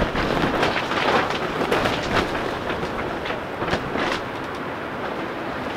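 A small plastic-covered cattle-panel greenhouse rattling and buffeting in strong gusty wind, its sheeting flapping against the frame in an irregular clatter.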